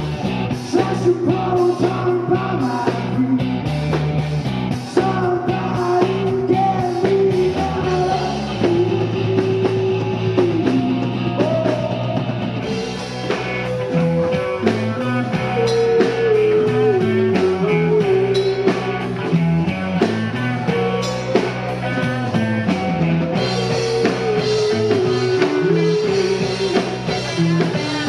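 Rock band playing: electric guitar, bass and drums with singing, thickening into a fuller, louder section about halfway through.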